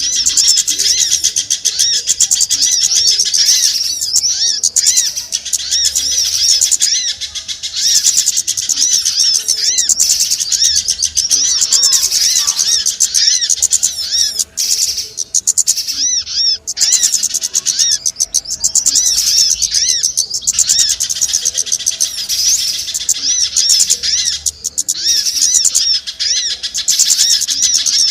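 Bird-lure recording of many small birds chirping: a dense, continuous stream of rapid, high-pitched chirps with only a couple of brief gaps near the middle.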